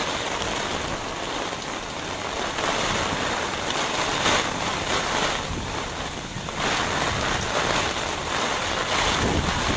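Heavy rain falling, a steady hiss that swells and eases every second or so, with wind on the microphone.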